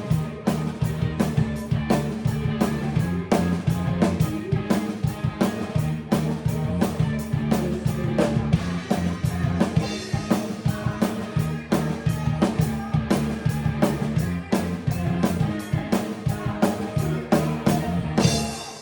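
Band music with a drum kit playing a fast, busy beat of kick, snare and cymbals over steady bass and guitar. It stops abruptly at the end.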